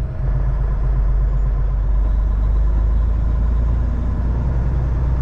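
Semi truck's diesel engine and road noise heard from inside the cab: a steady low drone.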